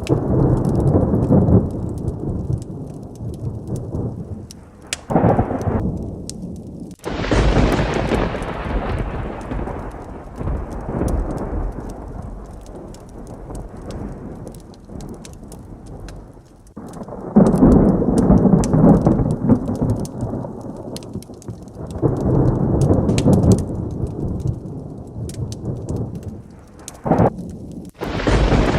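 Heavy rain with repeated rolls of thunder. A sharp crack about seven seconds in runs into a long rumble that slowly fades, and further rumbles swell in near the start, past the middle, and again near the end, with a short clap just before the last.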